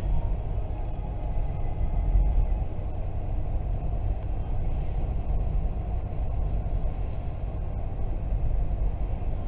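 Steady low rumble of a car driving on a snow-covered road, heard from inside the cabin: tyre and engine noise.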